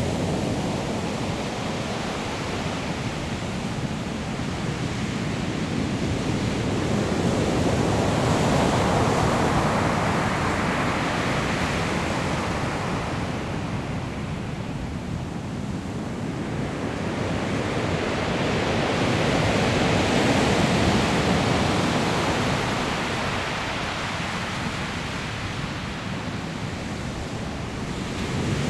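Sea waves breaking and rolling on a pebble shore, a continuous surf that swells and eases in two slow surges, with wind in the background.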